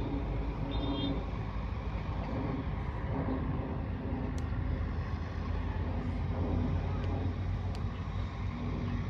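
Steady low rumble of motor noise, with two faint clicks about four and eight seconds in.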